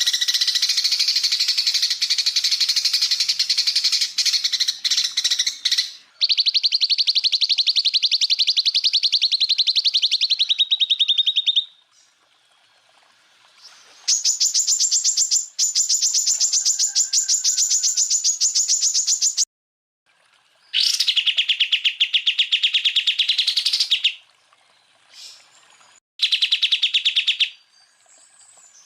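Cucak ijo (green leafbird) calling in 'tembakan' style: five bursts of very rapid, rattling repeated notes, each lasting a few seconds and pitched differently, with short pauses between them.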